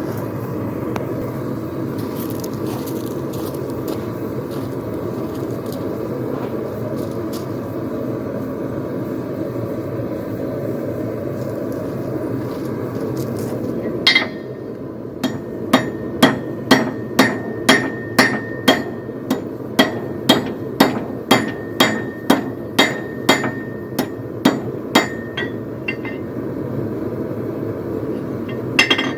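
A forge runs with a steady rush. About halfway through there is a clank, then a hand hammer strikes hot steel on an anvil about twice a second for some ten seconds, each blow ringing. These are light finishing blows drawing a poleaxe top spike out to a point.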